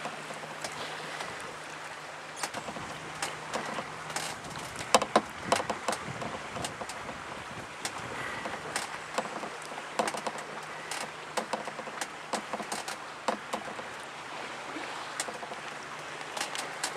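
Water lapping and splashing around a small boat, with many irregular sharp clicks and knocks and a faint steady low hum underneath.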